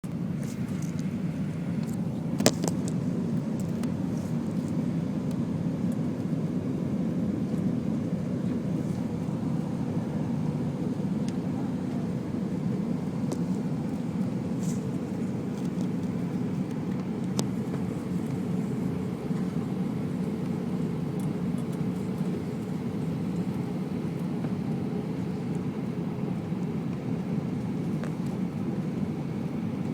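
Steady low roar inside the cabin of an Airbus A319 on approach: engine and airflow noise. A single sharp click sounds about two and a half seconds in.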